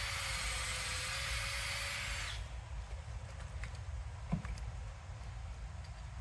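Drill boring a taphole into a maple trunk, running steadily for about two and a half seconds and then stopping. A single light knock follows about four seconds in.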